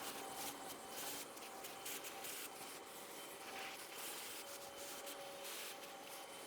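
Faint, irregular brushing strokes of a paintbrush's bristles rubbed over the ridged metal needle bed of a Passap E6000 knitting machine, clearing out dust.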